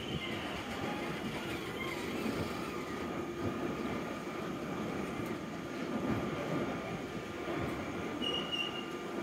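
IC1 passenger coaches rolling past, a steady rumble of wheels on the rails, with a brief high wheel squeal about eight seconds in.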